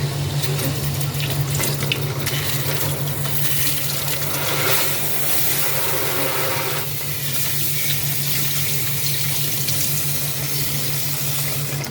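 Water running from a sink tap into the basin, a steady rushing splash that eases a little about halfway through, over a steady low hum.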